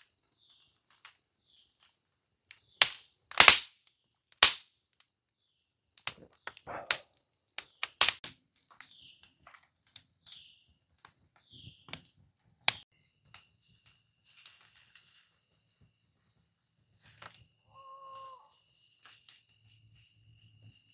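A steady high chirring chorus of crickets, broken by several sharp clicks and snaps, the loudest a few seconds in and about eight seconds in.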